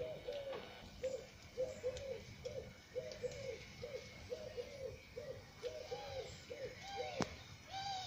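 A bird giving a long, even series of short, low hooting notes, about two or three a second. Near the end a higher, longer call that rises and falls comes in a few times, and there is a single sharp click about seven seconds in.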